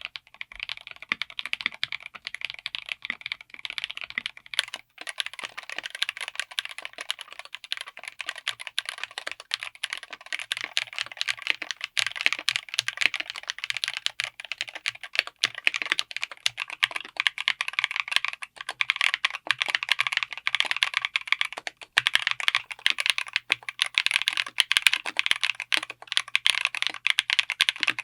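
Fast, continuous typing on a mechanical keyboard fitted with linear switches: dense sharp keystroke clacks with no switch click, broken off briefly twice.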